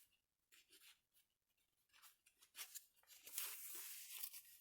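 Faint rustling and soft clicks of paper as the pages and inserts of a handmade junk journal are handled and turned, starting about two seconds in after near silence.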